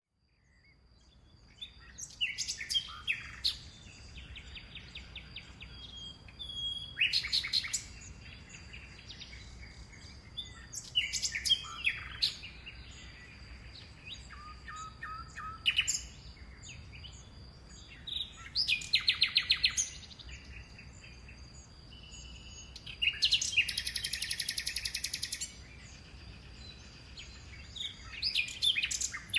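A family of white-eyes calling: repeated bouts of high chirps and rapid chattering trills every few seconds, with a longer trill about three quarters of the way through.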